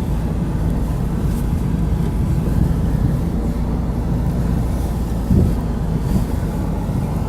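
Vehicle driving slowly on a rough property road: steady low engine and road rumble, with a brief louder jolt about five seconds in.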